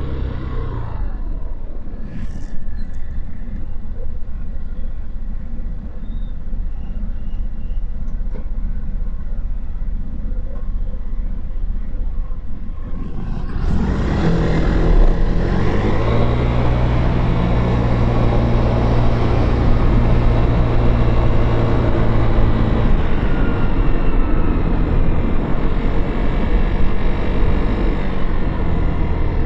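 Motorcycle engine slowing to a low idle for about twelve seconds, then pulling away about halfway through. Its pitch rises in steps through the gears, and a rush of wind and road noise builds with speed.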